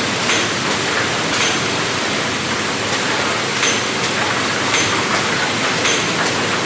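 Steady loud hiss of machinery running, with faint short ticks every second or so.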